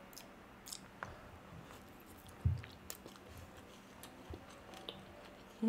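Quiet chewing and small mouth clicks of people eating biryani and kebab by hand, with one louder short, low sound about two and a half seconds in.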